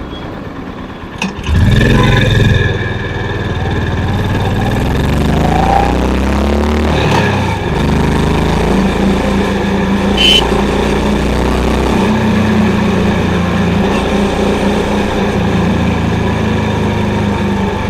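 Honda CB350's single-cylinder engine and exhaust as the bike is ridden. The note jumps in level after about a second and a half and climbs in pitch twice as it accelerates, drops at a gear change near the middle, then runs steadily.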